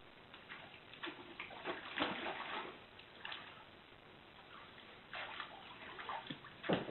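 Water splashing and sloshing in irregular bursts, quieter for a stretch in the middle.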